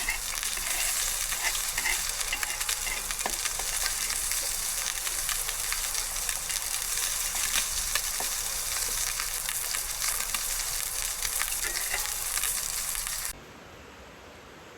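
Food sizzling and crackling in a hot frying pan, a dense hiss full of small pops. About 13 seconds in it cuts off suddenly to a quieter, even hiss.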